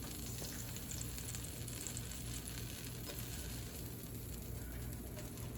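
Sliced chicken sizzling steadily as it fries in a pan on the stove.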